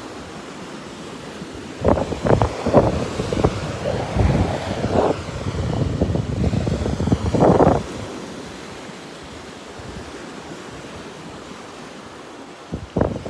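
Ocean surf washing onto the beach, with wind blowing on the microphone. About two seconds in, a louder, choppy stretch of rough bursts runs for some six seconds before it settles back to the steady wash.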